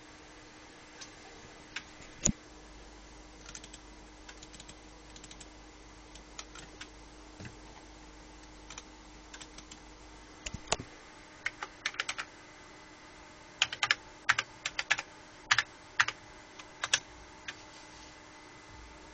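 Computer keyboard being typed on: irregular key clicks, sparse at first and then in quick runs in the second half, over a faint steady electrical hum.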